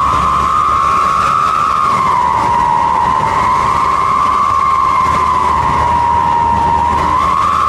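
'Wolf' whistle exhaust (knalpot srigala) sounding a loud, continuous howling whistle whose pitch slowly swells and sags a few times.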